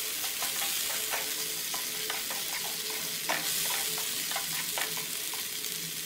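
Red chilli masala paste sizzling in oil in a nonstick frying pan, with irregular scrapes and taps of a spatula stirring it. The masala is being fried down until it darkens.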